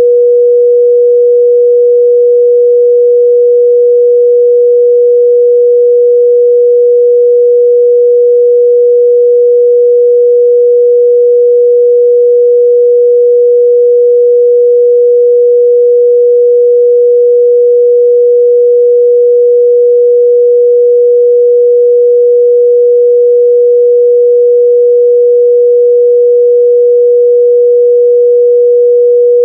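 A steady, loud 484 Hz sine-wave test tone, one pure pitch held without change.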